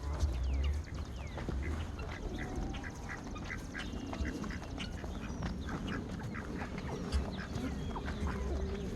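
Domestic geese chattering with many short calls. Wind rumbles on the microphone, most in the first second.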